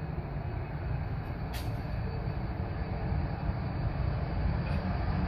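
Boeing 737 jet engines at takeoff thrust, a steady deep rumble that slowly grows louder, as a heavily loaded jet uses nearly the whole runway to get airborne. A brief click comes about one and a half seconds in.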